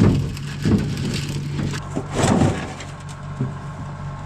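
International 686 tractor engine idling steadily, with several crunching, rustling noises of corn stalks being pulled out of the corn picker by hand, the loudest at the start and about two seconds in.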